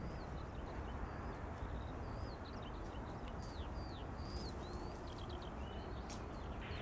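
Small birds chirping: many short, quick calls and little up-and-down whistles throughout, over a steady low rumble of background noise.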